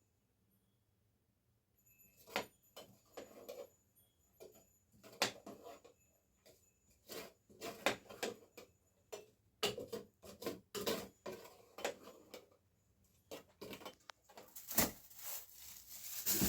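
Dishes and utensils clinking and knocking as they are handled, in an irregular run of sharp clicks that starts about two seconds in.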